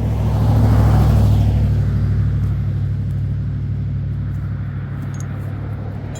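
A motor vehicle's engine running with a steady low hum, loudest about a second in and then slowly fading.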